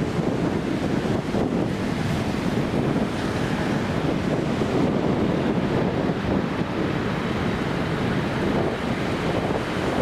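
Steady wind buffeting the microphone, a continuous rushing noise that holds even throughout.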